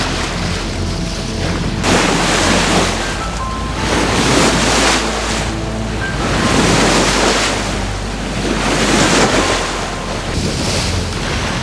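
Sea water rushing and washing past a sailboat under way offshore, swelling and easing every two seconds or so, with wind buffeting the microphone.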